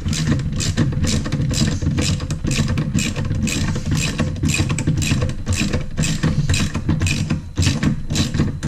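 Ratchet wrench clicking in quick, even strokes, about three a second, as a bolt is wound out, over a steady low hum.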